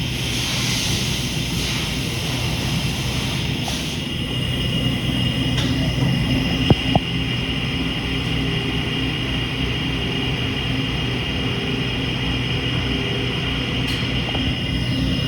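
Hurco CNC milling machine running with a steady low hum and a thin, steady high whine. A hiss fades out in the first second, and two sharp clicks come close together a little under seven seconds in.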